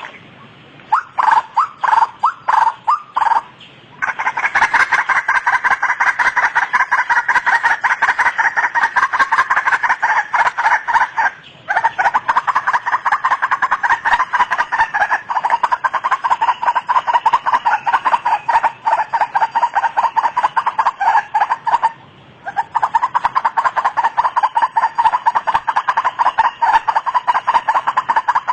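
White-breasted waterhen calling: rapidly repeated ruak-ruak notes. For about four seconds they come singly, then run together in a long fast series that breaks off briefly twice, about 11 and 22 seconds in.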